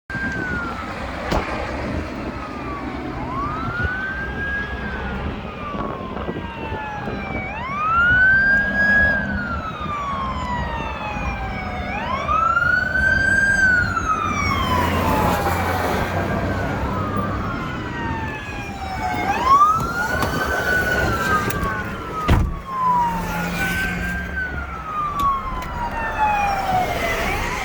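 Wailing emergency-vehicle sirens from several units of a chase, their rises and falls overlapping out of step, each sweep lasting about four seconds, over low traffic noise. A single sharp thump comes about two-thirds of the way through.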